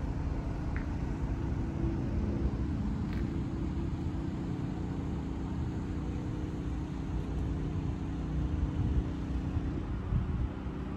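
The 2007 Lotus Exige S's supercharged 1.8-litre four-cylinder engine idling steadily.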